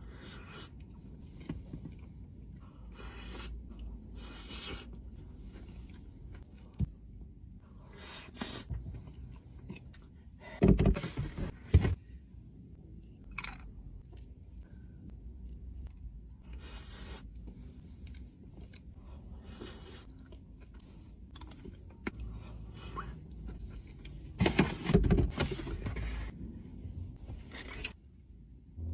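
Eating sounds of cake and sweets: chewing, with irregular short noises and two louder clusters of them about eleven and twenty-five seconds in, over a steady low rumble.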